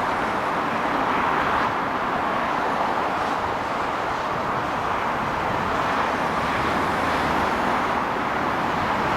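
Steady road traffic noise from cars, an even rushing sound with no breaks.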